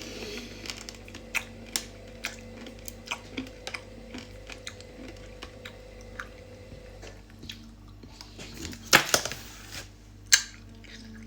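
Close-up mouth sounds of someone chewing and sucking a brittle sour candy: wet clicks and smacks at irregular intervals, with louder crunches about nine and ten seconds in.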